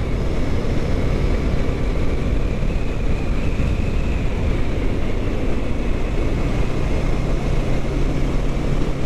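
Kawasaki Ninja 650 parallel-twin engine running steadily as the motorcycle climbs a rise, mixed with wind rushing over the microphone.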